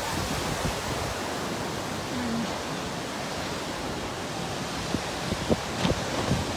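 Steady outdoor rushing noise, with a few brief low thumps near the end.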